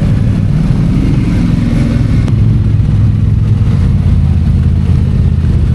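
ATV engine running steadily while riding, with a slight rise in revs about a second in.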